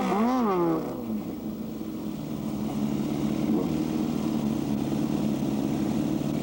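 Motorcycle engine revved in quick rises and falls for the first second, then idling steadily.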